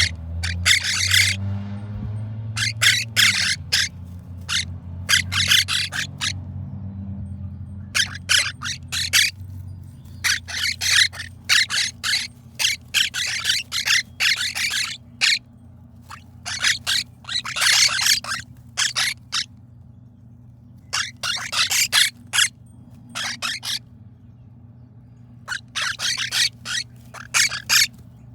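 Baby monk parakeets (quaker parrot chicks) making harsh, raspy calls: short hissy bursts in quick runs of three to six, repeated every few seconds, over a steady low hum.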